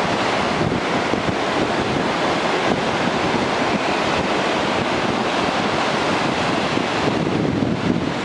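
Rough sea surf, waves washing and breaking without a break, with wind buffeting the microphone.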